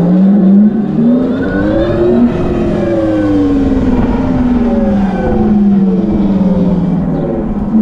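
Tarform Luna electric motorcycle's motor whining as it accelerates, its pitch rising for about two seconds, then falling steadily as the bike slows, over a low wind rumble.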